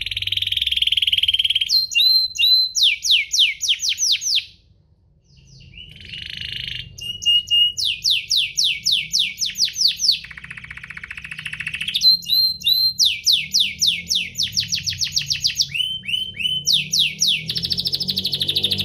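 Domestic canary singing: fast trills of repeated downward-sweeping notes and rattling rolls, with a short break about five seconds in.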